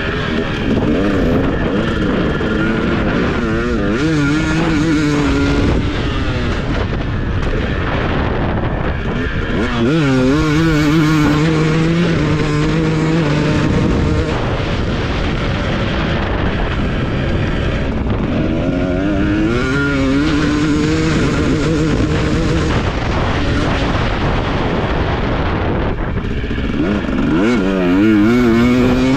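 Husqvarna TC250 motocross bike engine being ridden hard. It revs up and falls back again and again, the pitch climbing and then dropping several times as the throttle opens and shuts.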